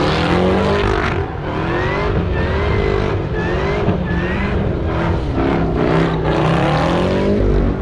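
Car engine revving hard in repeated rising sweeps, about one a second, with a few short high-pitched squeals partway through.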